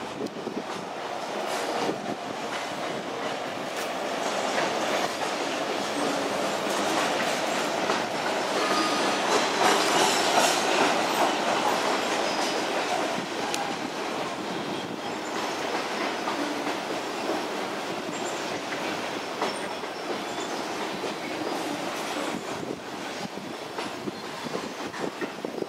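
Freight train of covered grain hopper cars rolling past, wheels clattering over the rail joints with a few brief squeals. It grows louder toward the middle and then eases a little.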